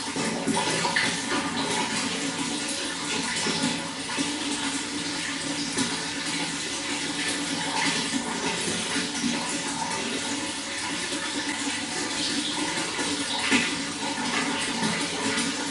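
Running water flowing steadily, with small irregular splashes and gurgles and one briefly louder splash near the end.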